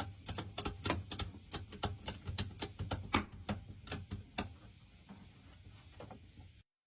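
A 2-inch ratchet strap's ratchet clicking in quick runs as the handle is worked, tightening the strap over the race car's tire. The clicks come about four or five a second, grow fainter after about four and a half seconds, and the sound cuts off suddenly near the end.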